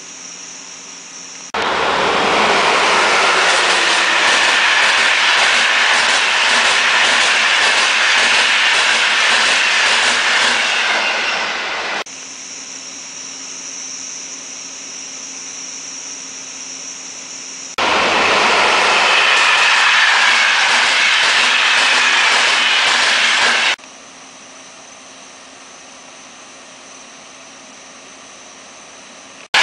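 A train passing, heard in two loud stretches of several seconds each that begin and end abruptly, with a high band of wheel-on-rail noise that slowly falls in pitch. Between them is a quieter steady hiss.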